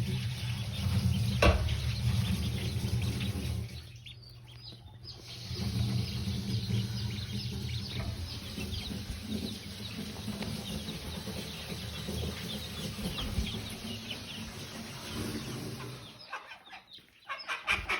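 Newly hatched chicks peeping in quick, high chirps over a low steady hum, with a broody mother hen clucking.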